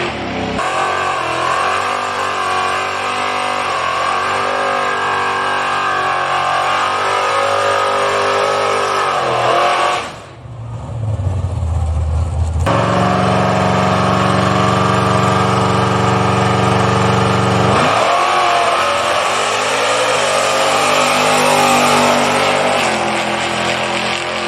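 Race engine at a drag strip running loud, its pitch rising and falling as it revs. About ten seconds in the sound drops away sharply for a moment. A steady high-revving stretch of about five seconds follows, then the pitch sweeps again.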